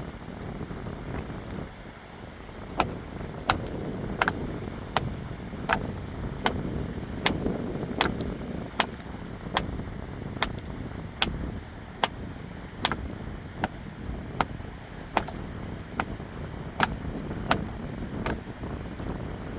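About twenty sharp, evenly spaced knocks, roughly one every three quarters of a second, over a steady rushing river.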